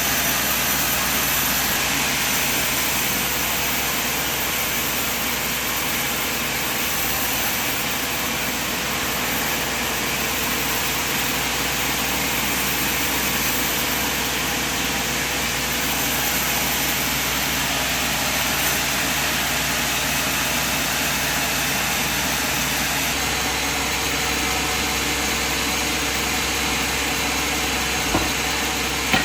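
Sawmill machine running steadily: an even engine drone under a wide hiss of noise, shifting slightly in tone about three-quarters of the way through, with a small tick near the end.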